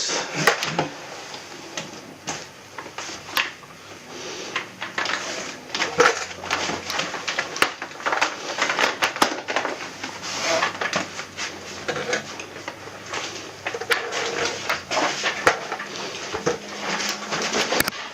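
Irregular clicks, taps and knocks of hard plastic and metal parts and tools being handled as an air conditioner is worked on.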